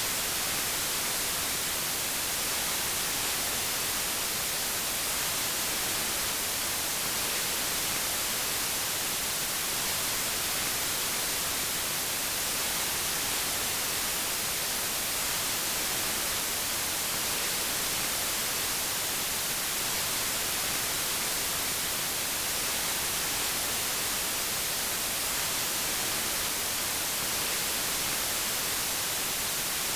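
Steady white noise: an even, unchanging hiss, brightest in the high end, with no variation in level.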